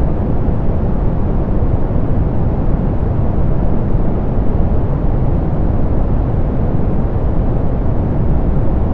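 Steady soft pink noise: an even, unchanging hiss weighted toward the low end, with the highs rolled off.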